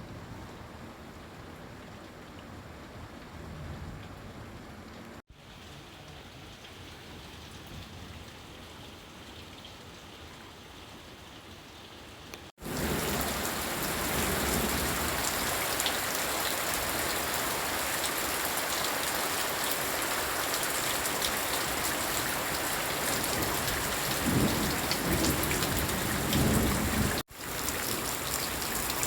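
Heavy rain falling steadily, much louder from about twelve seconds in, with a low rumble near the end. The sound drops out for an instant a few times.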